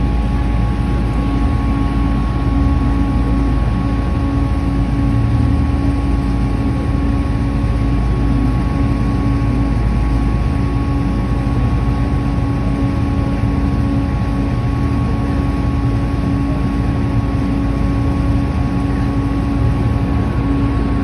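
Steady drone of a river sightseeing boat's engine under way, a constant low rumble with a faint steady hum.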